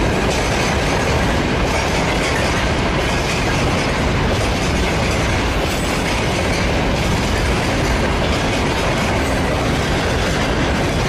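Passenger coaches of a Russian express train rolling along the track, their wheels on the rails making a steady, loud rumbling noise.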